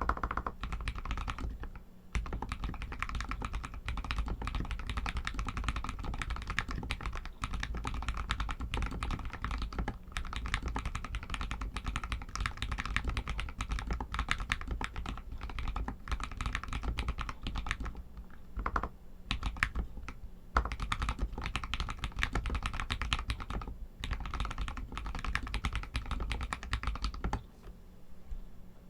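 Continuous typing on a Royal Kludge RK61 60% mechanical keyboard with Outemu Red linear switches: a rapid run of keystrokes with a few brief pauses. The typing stops about a second before the end.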